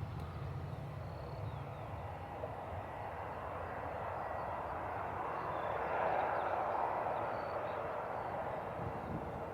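Distant engine noise, steady at first, swelling for a few seconds past the middle and then easing off. A few faint high chirps sound over it.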